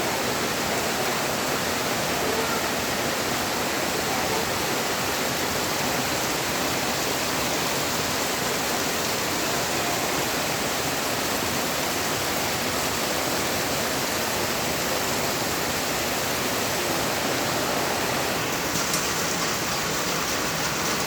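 Heavy rain falling steadily, a dense even hiss, with a slightly sharper patter near the end.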